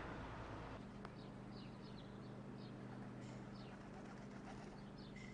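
Birds chirping in short, quick, falling calls, scattered through the stretch, over a faint steady low hum.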